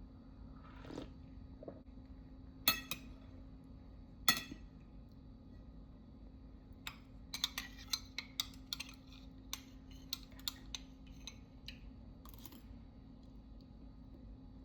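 Tableware clinking: two sharp, ringing clinks about a second and a half apart, then a run of small light clicks and taps, as of chopsticks or a spoon against dishes.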